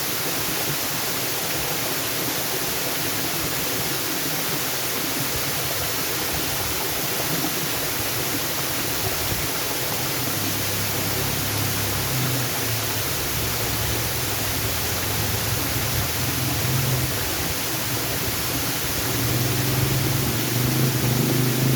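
Waterfall: a steady rush of falling water. From about halfway a low rumble builds beneath it, growing louder near the end.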